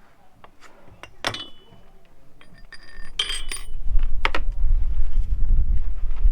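Small metal parts or tools clinking together, a few sharp clinks with a brief ring, then a loud low rumble takes over in the second half.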